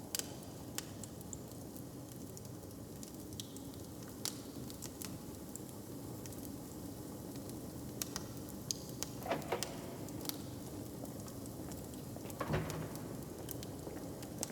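Wood fire crackling, with scattered sharp pops over a steady low rumble, and one louder knock near the end.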